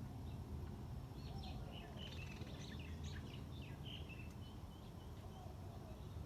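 Small birds chirping: a quick flurry of short, high chirps from about a second in until past the middle, over a steady low background rumble.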